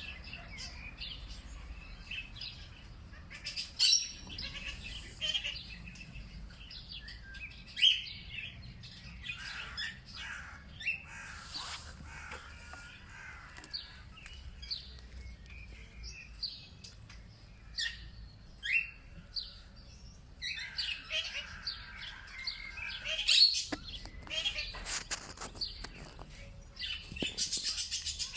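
Small birds chirping and calling, with many short high notes that overlap and grow busier in the last third, over a faint low background rumble.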